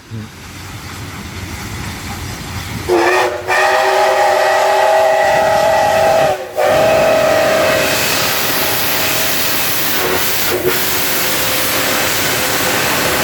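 DT668 steam locomotive blowing its whistle: a loud, steady chord of several tones held for many seconds, with two short breaks early on, over the hiss of steam. It starts about three seconds in, after the rising rumble of the approaching train.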